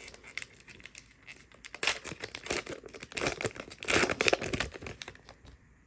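Wrapper of a trading card pack crinkling and tearing as the pack is opened, in irregular bursts that die away near the end.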